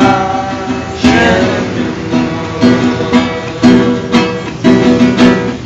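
Instrumental passage of a song: an acoustic guitar lets a chord ring, then strums steadily from about a second in, roughly two strokes a second.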